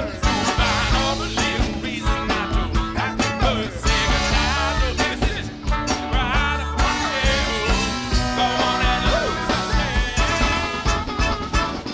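Funk band playing live, with bass and drums keeping a steady beat under pitched melody lines.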